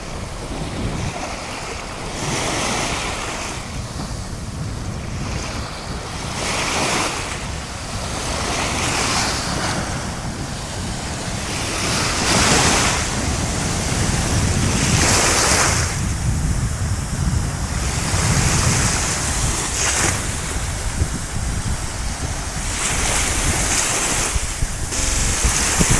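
Water washing and splashing in surges every two to three seconds, with wind rumbling on the microphone.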